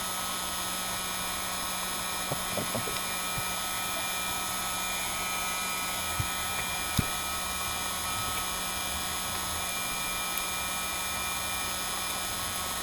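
Heat gun running with a steady blowing whir while it softens the back-glass adhesive of a Samsung Galaxy S9 Plus, with a few light clicks a couple of seconds in and again about halfway.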